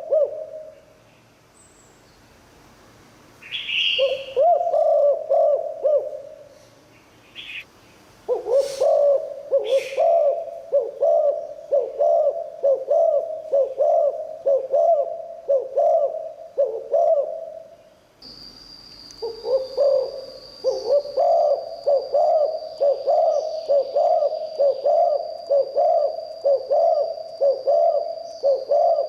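Spotted dove cooing in long runs of rapid, pulsing coos: a short phrase about four seconds in, then two long runs of about ten seconds each. A few brief higher chirps of another small bird come in between, and a thin steady high tone starts a little past the middle.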